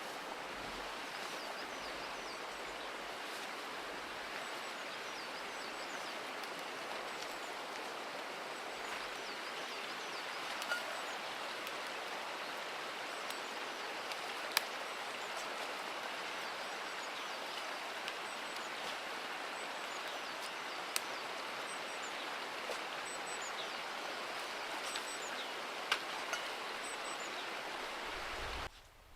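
Steady rushing noise with a few faint clicks scattered through it, cutting off suddenly near the end.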